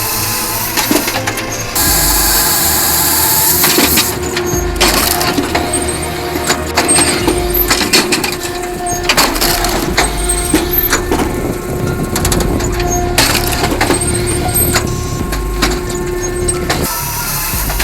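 Firewood processing machine splitting logs: repeated cracks and knocks of wood over a steady machine hum, with abrupt changes every few seconds where short clips are cut together.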